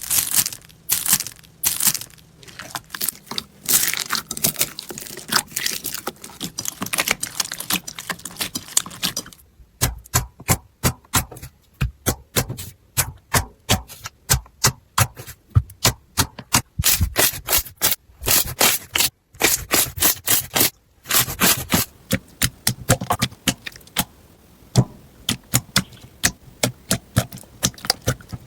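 Slime being handled, giving rapid crackling and popping clicks, several a second. The sound changes character twice, about a third and about three quarters of the way through, as the slime changes.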